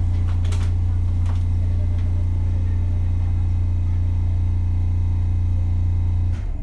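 Interior running noise of a JR Kyushu BEC819 series battery-electric train: a steady low hum with a couple of brief clicks about half a second and a second and a half in. The hum cuts off suddenly near the end.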